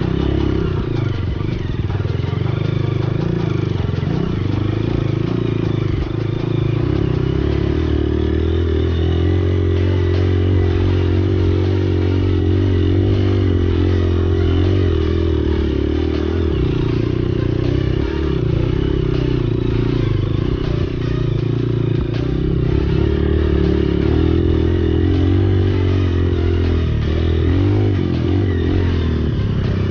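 Single-cylinder trail motorcycle engine running under way, its pitch shifting a little with the throttle, with some clatter over rough ground.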